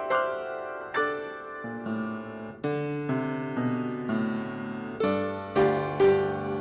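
Piano playing, struck chords that ring and fade, softer and held in the middle, with stronger repeated chords returning near the end.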